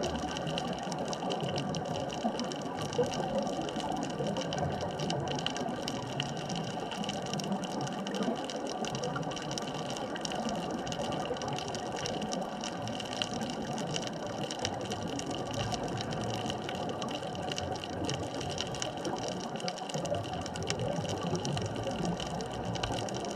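Steady underwater ambient noise recorded at a deep bridge-span artificial reef: an even wash with a faint steady hum and many fine crackling clicks throughout.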